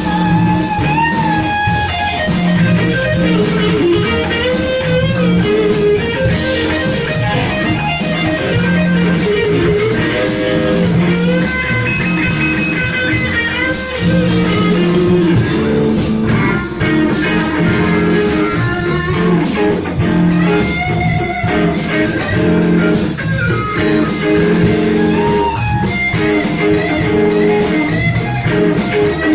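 Blues-rock band playing live without vocals: electric guitar lines with notes bending in pitch over bass and drum kit.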